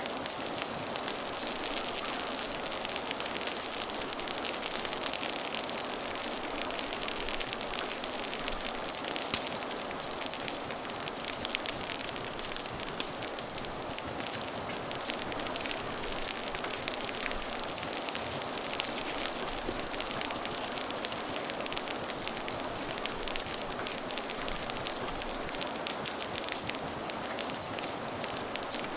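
Steady rain with a wood fire crackling over it: a constant hiss of rain sprinkled with many small crackles, and a couple of louder pops.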